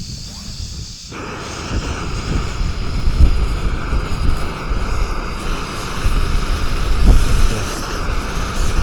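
Gas canister camping stove burner running with a steady roaring hiss, coming on suddenly about a second in.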